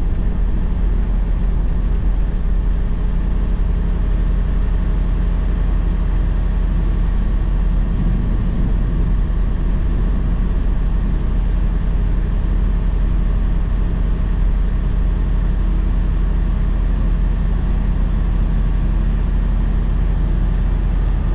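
Steady engine drone and road noise inside a truck cab while driving on snowy roads.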